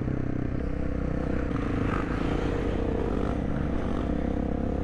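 Supermoto motorcycle engine running steadily under the rider while riding along the road, its pitch holding fairly even with slight wavers.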